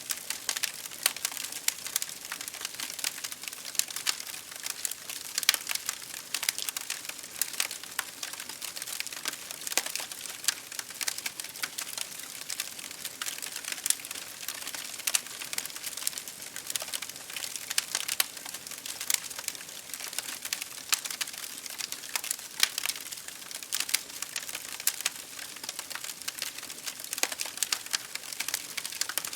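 Wood fire crackling in a fireplace, with many irregular sharp pops and snaps, over a steady hiss of rain against a window.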